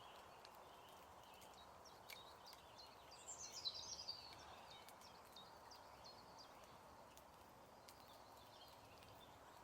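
Faint woodland background hiss with a bird singing one short descending trill about three seconds in, and a few faint clicks.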